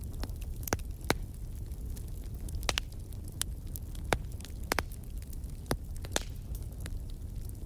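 Wood fire crackling in a fireplace: scattered sharp pops and snaps, about a dozen irregularly spaced, over a steady low rumble of the flames.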